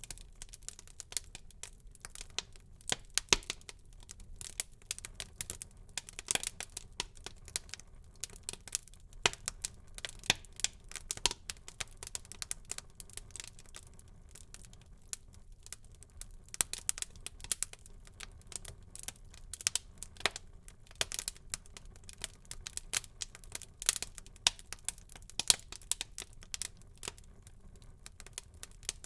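Wood fire burning in a fireplace: irregular crackles and sharp pops over a low steady hiss of the flames.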